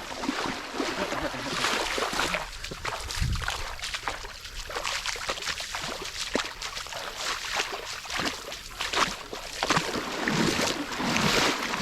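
Footsteps sloshing through shallow river water, with irregular splashes.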